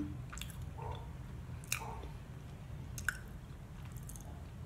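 Close-miked chewing of a mouthful of bamboo-charcoal mooncake with salted egg yolk filling, with a few short wet mouth clicks, the sharpest near the middle and about three seconds in.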